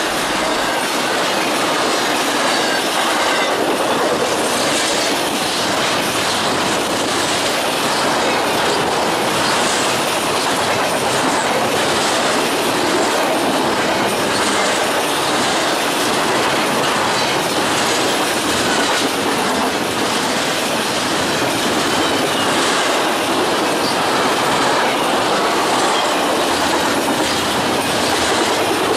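Double-stack intermodal freight train passing close at track speed: a steady rush of steel wheels on rail with faint repeated wheel clicks, easing off slightly near the end as the last cars approach.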